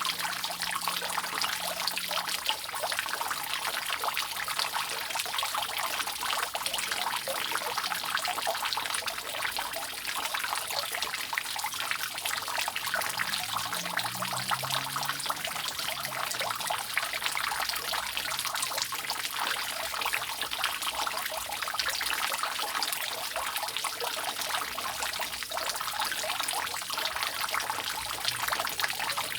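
Rainwater dripping and trickling steadily off a roof, a dense, continuous patter of many drops.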